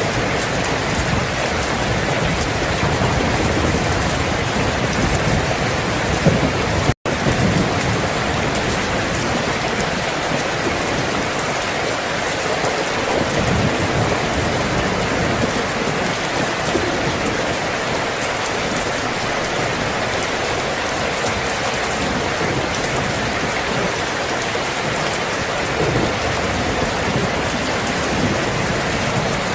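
Steady heavy rain with low rumbles of thunder rolling under it. The sound cuts out for an instant about a quarter of the way in.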